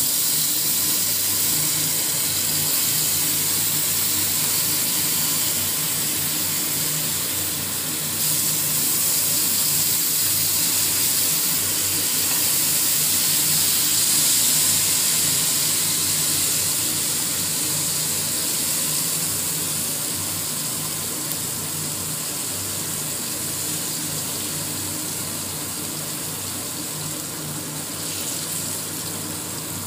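Raw banana slices coated in spice-powder batter sizzling steadily as they shallow-fry in hot oil in a pan, growing a little louder about eight seconds in.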